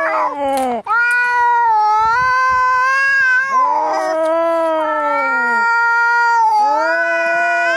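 Two angry cats yowling at each other, long drawn-out caterwauls that overlap and waver in pitch, one voice lower than the other. A short hiss cuts in near the start and another about four seconds in.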